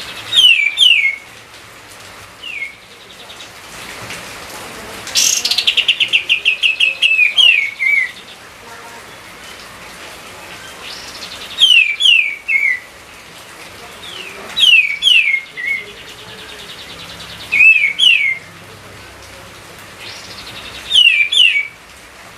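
A songbird repeating a short loud phrase of two or three quick down-slurred whistles about every three seconds. About five seconds in, one phrase opens with a fast rattling trill. A faint steady hiss lies underneath.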